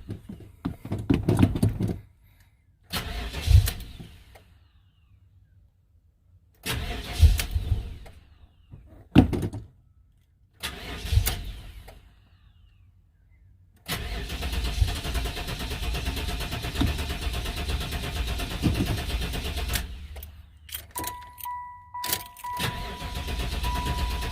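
1995 Chevrolet Impala SS LT1 V8 cranking and starting again and again, catching briefly and dying each time, then running or cranking for about six seconds before stopping. The stalling comes from a vacuum leak through brittle emission hoses at the throttle body. Near the end a car's warning chime beeps steadily.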